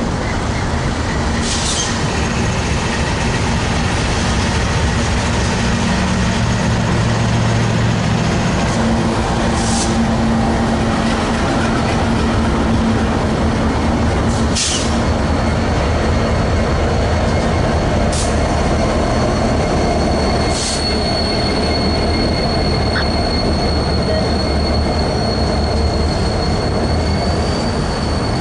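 Freight train rolling past with a steady, loud rumble of wheels on rail and a few short sharp clanks. About halfway through, a high steady wheel squeal sets in and holds.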